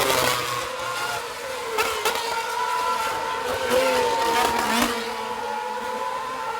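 Racing car engines at high revs on the Monza circuit, several engine notes overlapping and wavering in pitch, with a few short, loud bursts as cars pass.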